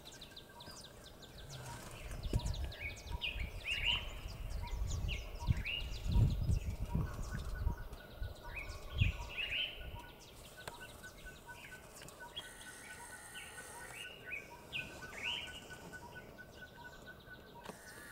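Wild birds calling in the open: many short, upward-sweeping calls, with a steady train of high pips running through the second half. Low rumble swells and fades under them between about two and ten seconds in.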